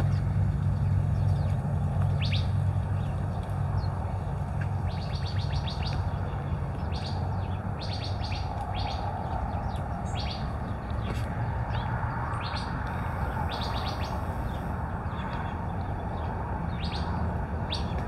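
Small birds chirping in short, high notes, scattered irregularly, over a steady low engine rumble that is loudest at the start and eases off after a few seconds.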